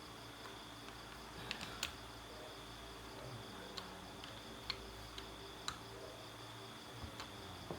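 Scattered light clicks and ticks, about eight of them at irregular intervals, over a faint steady high-pitched hum.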